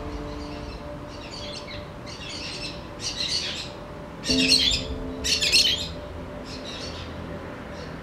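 Birds chirping in a run of about seven short twittering bursts, loudest around the middle, over a few soft held notes of background music.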